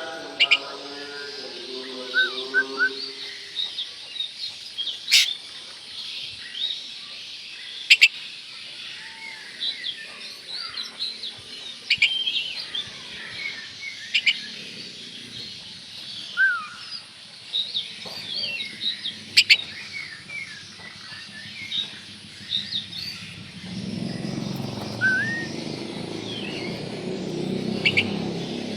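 Oriental magpie-robin (kacer) in full song: a rapid, varied run of chirps and whistled notes, broken by a few sharp clicks. A low rumbling noise comes in near the end.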